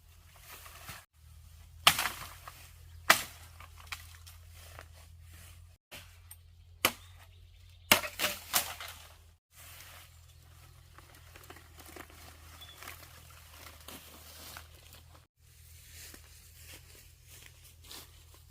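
A few sharp snaps and crackles, like things being handled, broken or crumpled, over a low steady hum.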